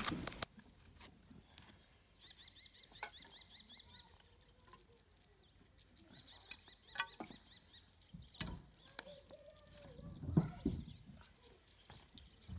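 Faint bird song outdoors: two stretches of quick repeated high chirps, with a few scattered knocks and clicks, the loudest about ten seconds in.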